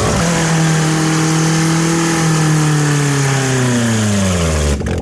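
Kia Spectra's four-cylinder engine through an open exhaust, held at high revs, the pitch sagging slowly after about two seconds before the revs drop away near the end.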